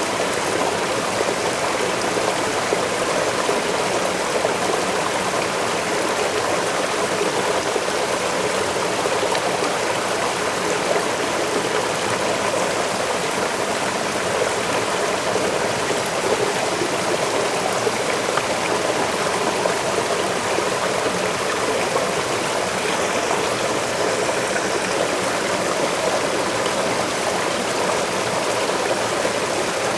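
Waterfall pouring steadily, an even rushing of falling water with no breaks.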